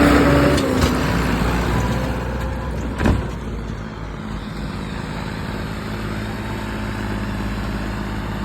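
Diesel tractor engine running. About half a second in its higher note drops away, leaving a steady lower running sound, with a single sharp knock about three seconds in.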